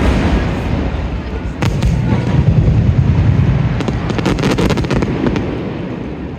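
Aerial fireworks display: shells bursting with deep booms, one sharp bang about a second and a half in and a run of crackles around four seconds in. The rumble slowly fades near the end.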